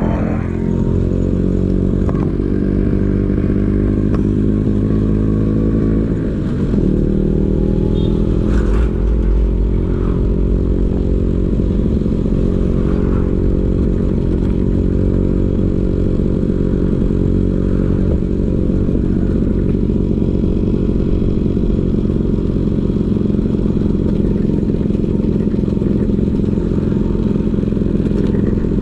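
Vespa PX 150 two-stroke single-cylinder engine running through a DRC Victory Racing aftermarket exhaust at a steady speed. About six seconds in, the pitch briefly dips and then comes back up.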